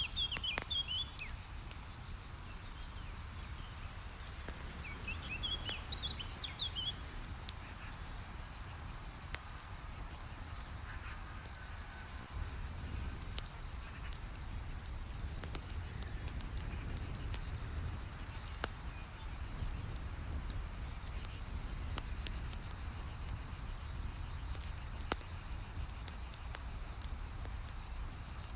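Campfire crackling with scattered sharp pops over a low steady rumble. Birds chirp in two short bursts near the start and again about five seconds in, over a faint high hum of insects.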